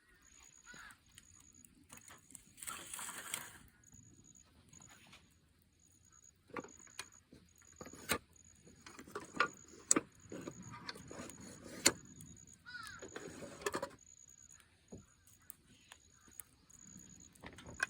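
Scattered sharp clicks and knocks, with a brief rustle about three seconds in, over a faint high-pitched tone pulsing a little more than once a second.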